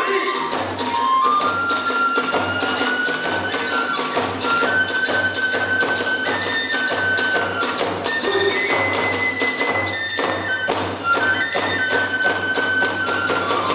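Hiroshima kagura hayashi playing live: a bamboo transverse flute holds a high melody that steps from note to note over fast, even clashes of small hand cymbals and a steady beat on a large drum.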